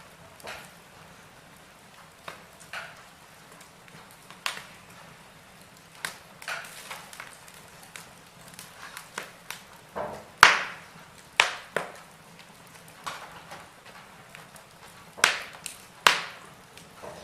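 Wood fire burning in a fireplace: irregular crackles and sharp pops of burning logs over a faint hiss, with the loudest snaps a little past halfway and near the end.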